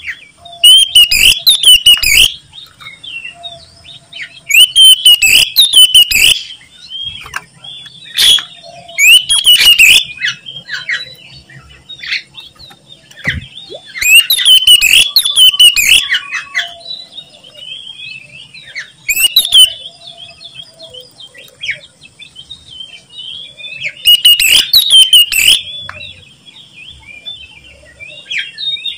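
Oriental magpie-robin (kacer) singing loudly: a burst of rich, rapidly varied song about every four or five seconds, with softer chirps and whistles in between.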